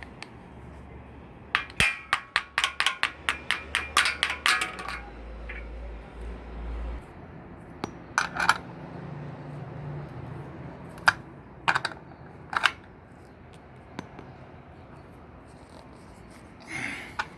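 Bolts being tightened on a metal exercise-tower frame with a hand tool: a quick run of metallic clinks, about four or five a second, then a few separate clicks and knocks.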